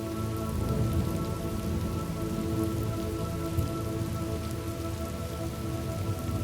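Steady rain falling, an even patter with scattered drop ticks, over a soft sustained chord of held tones.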